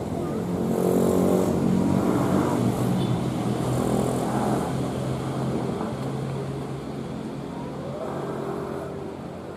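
A motor vehicle's engine running, loudest about a second in and then slowly fading away.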